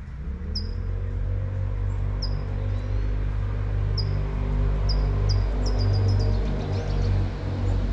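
A motor vehicle's engine running close by, low and steady after a brief rise in pitch at the start, over the hiss of light rain. A bird gives short, falling chirps every second or two, with a quick run of them near the middle.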